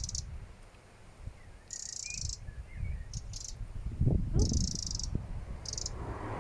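A small bird's scolding alarm call, aimed at a cat: short high buzzy trills about half a second long, repeated every second or so, with a few faint chirps between them. Wind rumbles on the microphone.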